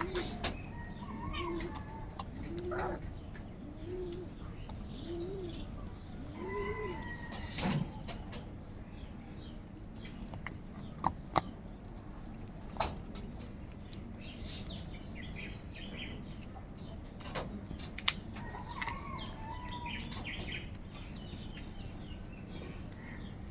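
Birds calling: a low, arching call repeated about once a second for the first several seconds, then scattered higher chirps with a few sharp taps in between.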